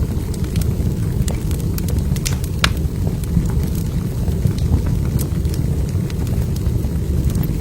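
Wood fire burning in a fireplace: a steady low rush of flame with irregular sharp crackles and pops of burning logs, a few standing out louder.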